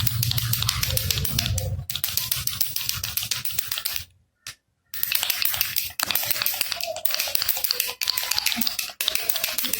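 Baby rattle shaken rapidly: a dense, fast rattling of small beads or pellets inside the toy. It stops for just under a second about four seconds in, then starts again.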